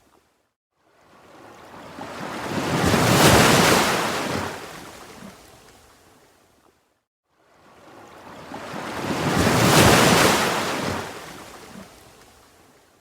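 Ocean waves breaking on a shore, twice: each one swells up over about two seconds, breaks, then washes out and fades to near silence before the next, about six and a half seconds apart.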